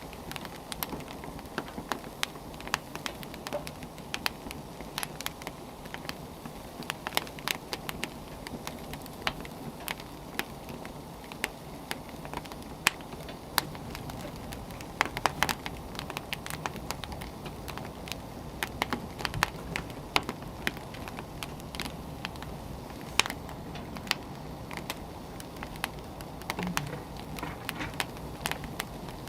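Wood fire burning, with a steady low rush and frequent irregular sharp crackles and pops from the burning firewood.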